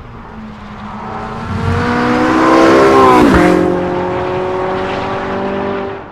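Porsche 918 Spyder's V8 engine at high speed as the car approaches and passes close by. Its pitch and loudness climb, then the pitch drops sharply as it goes past about three seconds in, and it runs on at a steady lower note as it pulls away.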